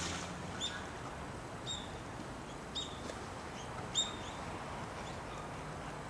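Short high bird chirps, four of them about a second apart, the last the loudest, over a steady background hiss.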